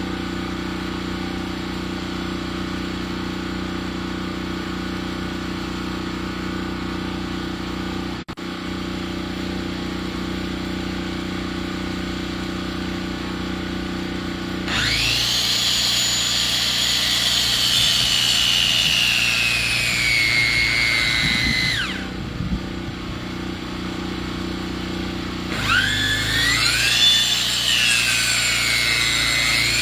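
Sawmill running steadily, then cutting through a log twice. The first cut is a loud, high whine that sinks in pitch as the blade takes the load, and it stops about two thirds of the way in. The second cut starts near the end and wavers in pitch.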